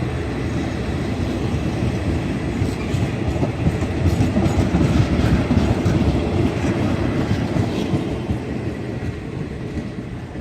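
Passenger train passing close by: a steady rumble of wheels on rail with clickety-clack from the rail joints. It is loudest in the middle and fades as the train moves away.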